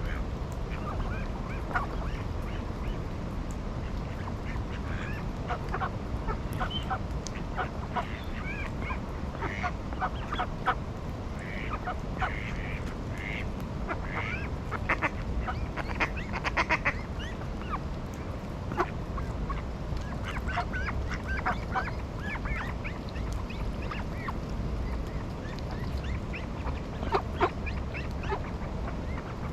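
Ducks and other waterfowl calling: many short quacks and honks scattered throughout, busiest around the middle and again near the end, over a steady low rumble.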